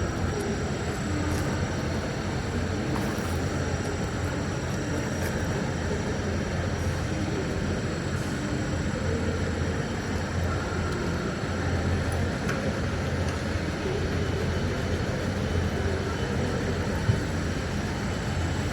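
Steady low hum and rumble of an electric train, swelling and easing slightly, with a faint high whine above it.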